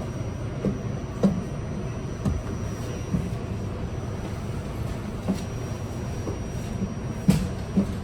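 R68 subway car running, a steady low rumble with irregular sharp clacks and knocks from the wheels and car body, the loudest a little past seven seconds in.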